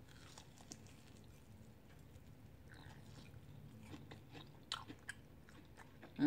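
A person chewing a bite of chicken wing coated in crushed Flamin' Hot Cheetos, with soft crunches and wet mouth clicks. A few sharper crunches come about three-quarters of the way through.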